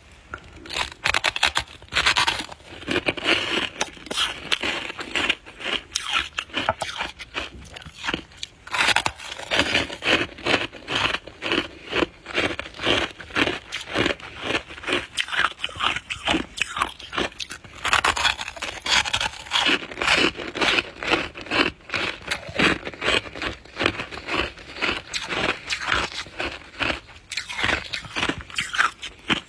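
Frost being scraped off a freezer's walls in quick repeated strokes, several a second, with brief pauses between runs.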